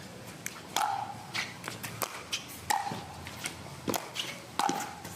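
Pickleball rally: paddles striking the hollow plastic ball with a sharp pock about once a second, four strong hits in all, with lighter taps of bounces and footsteps on the court in between.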